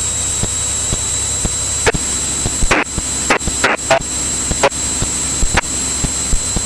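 Cockpit headset audio in a light aircraft: a steady engine drone and a high electrical whine, broken by a string of sharp clicks and a few brief crackles of radio static, with no voice coming through.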